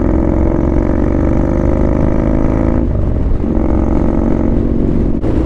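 Yamaha Bolt's air-cooled V-twin engine running while the bike is ridden. The engine note breaks off briefly about three seconds in, then resumes on a steady pitch, and breaks again near the end.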